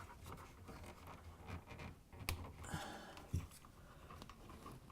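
Faint small clicks and handling noise of a plastic refrigerator door light switch and its wire connector being worked by hand, with one sharp click about two seconds in.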